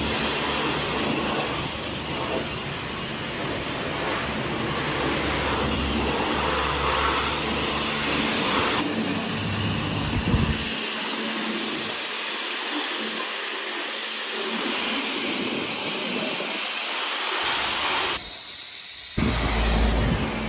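Pressure-washer spray hissing against a car, in several clips that cut abruptly from one to the next.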